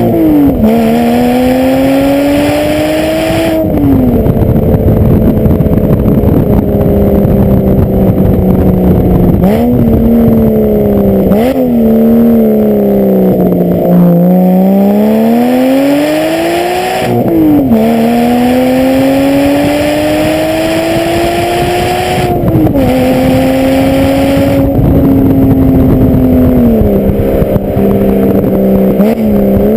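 Porsche Boxster S 3.2-litre flat-six exhaust, through secondary-cat bypass pipes and a Stebro race muffler, heard close at the rear bumper. The engine pulls through the gears under hard throttle: each rising pull ends in a sudden drop in pitch at the shift. About a third of the way in, the pitch falls for a few seconds as the car slows, with quick short revs in between.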